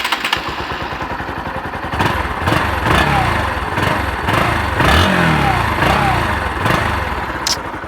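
Bajaj Pulsar NS 160's carbureted, oil-cooled single-cylinder engine idling through its underbelly exhaust. From about two seconds in it is revved with several quick throttle blips, each rising and falling, and it settles back toward idle near the end.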